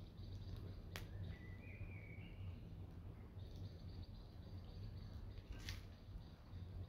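Campfire burning with two sharp crackles a few seconds apart, over a steady low background rumble. A short high chirp follows the first crackle.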